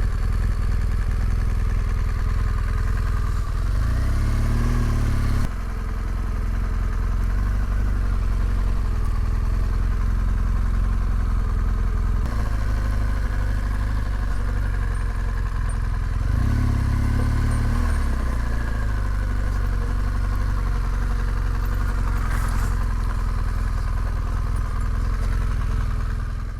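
Adventure motorcycle engine running under way, with a steady drone whose pitch rises and falls twice, about four seconds in and again about sixteen seconds in, as the bike speeds up and eases off.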